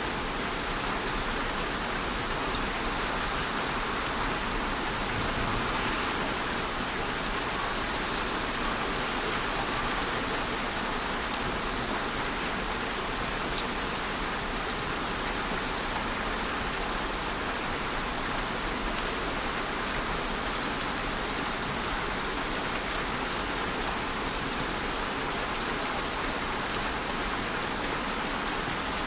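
Steady rainfall, an even hiss of drops falling on a surface with a few faint separate drop ticks.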